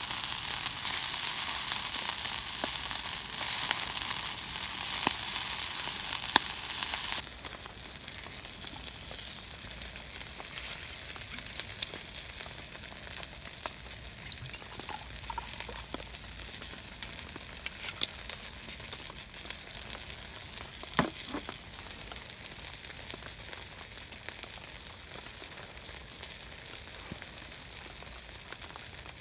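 Food sizzling on a camp grill, a steady hiss with fine crackles; about seven seconds in it drops suddenly to a quieter sizzle with occasional small pops.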